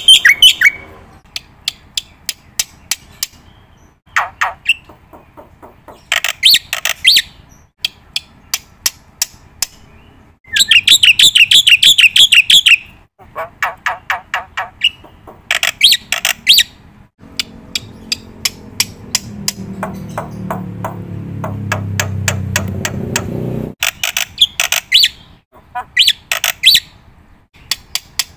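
A bird calling in bursts of rapid chirps and trills, repeated with short pauses. A low rumble runs under it for several seconds in the second half and stops suddenly.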